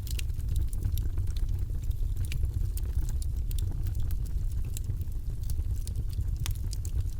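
Wood fire crackling in a fireplace: frequent irregular snaps and pops over a steady low rumble of the flames.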